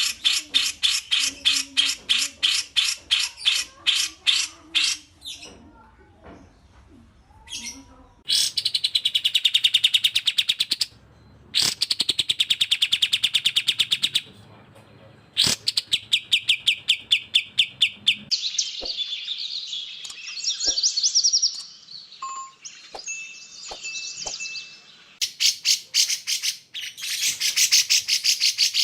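Cucak jenggot (grey-cheeked bulbul) and kapas tembak songbirds singing in fast series of repeated, high chattering notes. The stretches of song start and stop abruptly, with short gaps and a more varied warbling passage in the middle, spliced together from several recordings.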